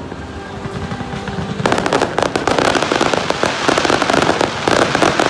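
Aerial fireworks going off. For the first second and a half or so there is a lighter patch, and then a dense, rapid crackling of bursting shells that continues to the end.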